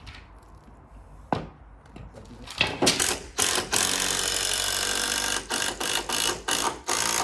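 Electric Kango breaker hammer chiselling out a concrete foundation, starting in short bursts, running steadily for about two seconds, then stopping and starting again before it cuts off suddenly at the end. A single knock comes shortly before it starts.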